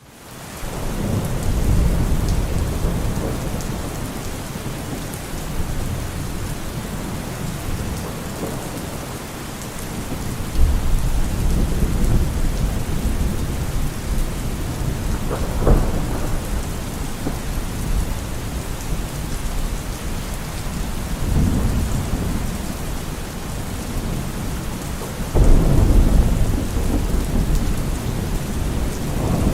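Steady rain with rolling thunder. The sound fades in at the start, and low rumbles swell about a second in, around ten seconds in and near the end, with a sharper crack of thunder about halfway through.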